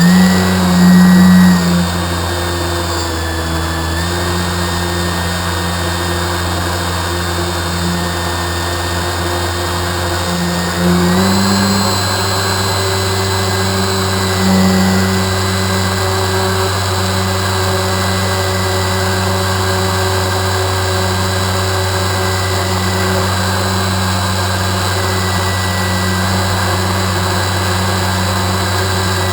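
A small motor running steadily, a pitched hum with a thin high whine over it; about 11 seconds in it shifts up slightly in pitch and holds there.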